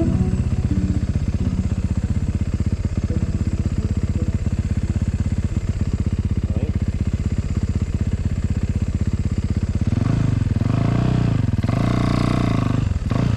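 Snow bike engine running with a rapid, even firing beat. Near the end the revs rise and fall a few times.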